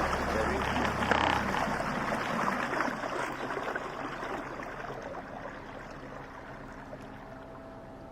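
Motorboat under way on a river: water rushing along the hull under a steady motor hum. The rush fades steadily, and a low hum drops out about two seconds in, leaving a fainter, even engine drone.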